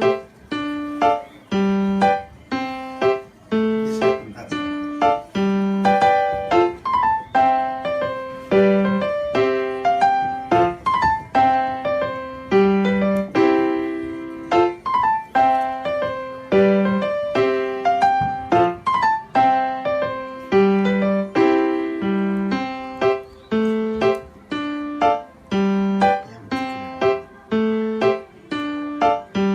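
Background piano music, a light melody of struck notes over a steady bass line.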